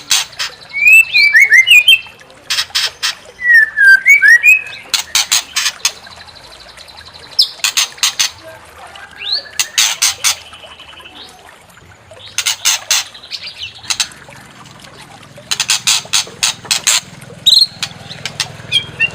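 White-rumped shama (murai batu) singing in an agitated, provoking style: repeated loud bursts of harsh, rapid ticking chatter alternate with short whistled notes that slide up and down.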